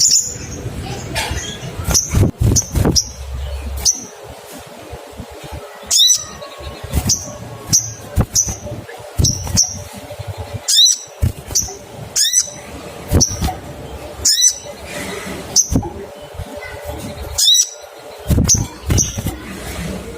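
Olive-backed sunbird giving its short, sharp 'cuit cuit' call notes, a chirp or two at a time, repeated irregularly about once or twice a second.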